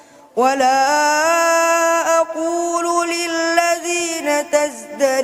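A young imam's voice chanting Quranic recitation in Arabic, starting after a short pause and drawing out a long, melodic held line with ornamented turns.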